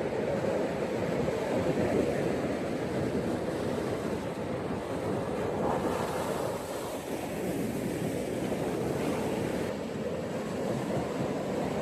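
Ocean waves breaking and washing up a beach, a continuous surf noise that swells and eases gently.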